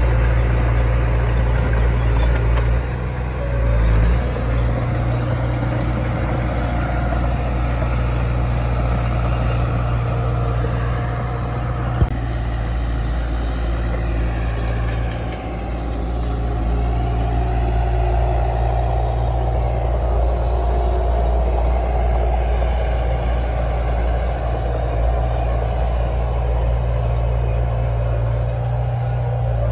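Heavy diesel earthmoving engine running steadily with a deep hum, and a single sharp click about twelve seconds in.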